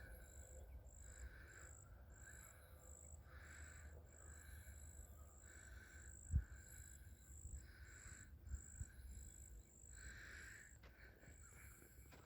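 Faint high-pitched bird chirping, repeated evenly about three times a second, over a low wind rumble on the microphone, with one soft thump about six seconds in.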